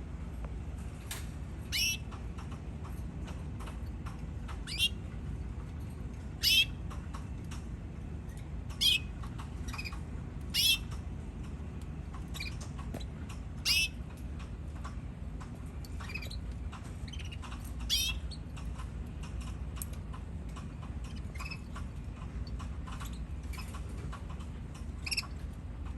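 Canaries giving short, separate high chirps every one to three seconds, several sweeping down in pitch, over a steady low hum.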